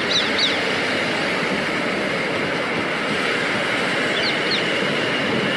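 A non-stopping train running through the station at speed: a steady, continuous noise of wheels on rail. Short falling bird chirps sound over it at the start and again about four seconds in.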